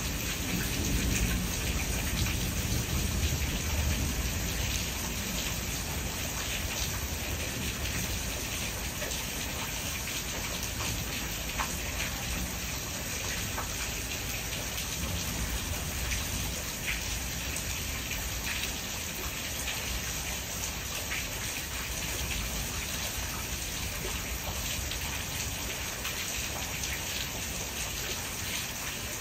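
Steady rain falling, with scattered sharp drop hits throughout and a low rumble in the first few seconds.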